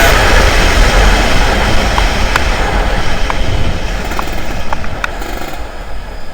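Loud rumbling vehicle noise from the drag run, without a clear engine pitch, fading gradually away, with a few faint clicks.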